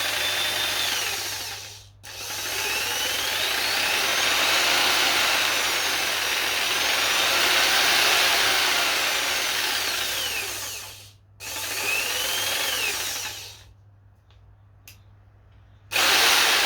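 Fieldmann FDP 200712-E 710 W corded jigsaw running free in several trigger pulls, its speed dial on a low setting, the motor pitch rising and falling as it speeds up and slows. It stops briefly about two seconds in, runs again, stops near eleven seconds, runs briefly, is quiet for about two seconds, then starts again near the end.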